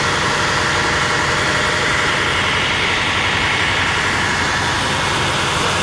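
Heavy diesel engine of a fire truck running steadily close by.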